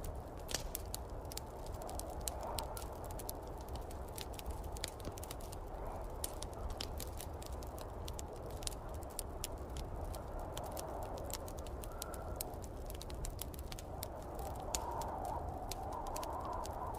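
Wood fire crackling with many sharp pops, over a steady rush of snowstorm wind that swells a few times.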